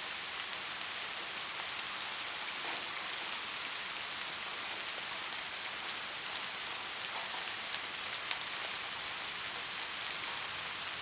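Steady rainfall, an even hiss with scattered individual drops ticking through it.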